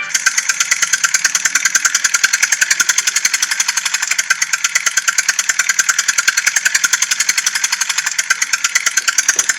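Engine-like clatter of a tractor, a rapid, even ticking of about ten beats a second, thin and high-pitched with little low end.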